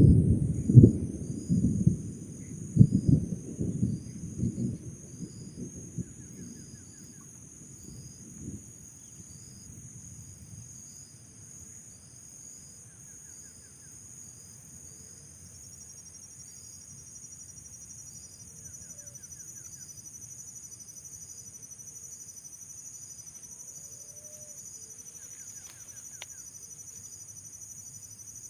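Steady high-pitched chorus of crickets and other insects, pulsing evenly. A run of loud low thumps and knocks in the first five seconds, then only the chorus over a faint low rumble, with a few short faint chirping trills.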